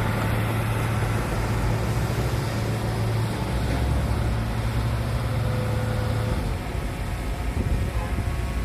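Heavy diesel engine of earthmoving equipment running at a steady low note, which weakens and turns rougher about six and a half seconds in.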